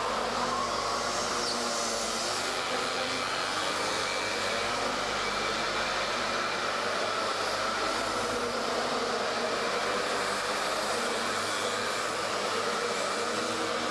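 Minimoto race bikes' small two-stroke engines buzzing at high revs, a steady high-pitched drone with slightly wavering pitch.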